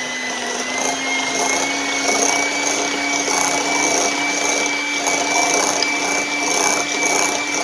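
Electric hand mixer running steadily with a constant motor whine, its wire beaters whipping eggnog into softened cream cheese and butter in a glass bowl.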